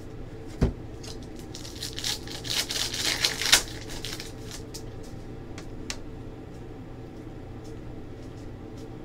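Trading cards and their packaging being handled on a table: a knock, then about two seconds of crinkling and rustling ending in a sharp click, and another light click a little later.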